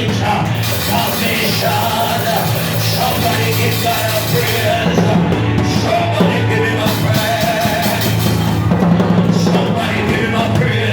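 Live band music with a drum kit and bass, and singing over it.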